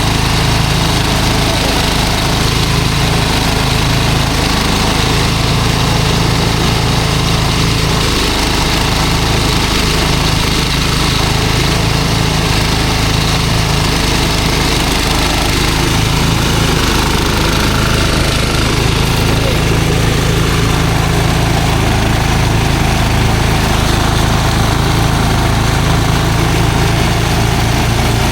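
An engine running steadily and loudly, with a constant low hum throughout.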